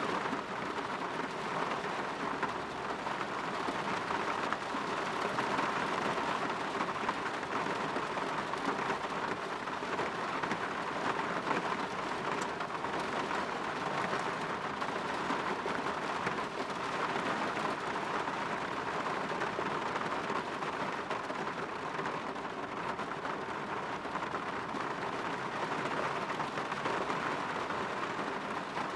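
Steady rain falling, an even hiss that holds at one level throughout, with no thunder claps.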